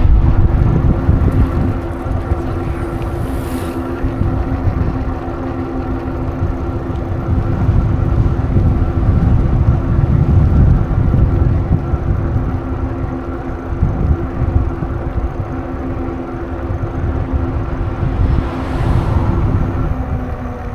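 Riding a bicycle: a heavy, uneven low rumble of wind and rolling noise on the microphone, with a steady droning hum underneath. Two brief rushing swells come about three seconds in and again near the end.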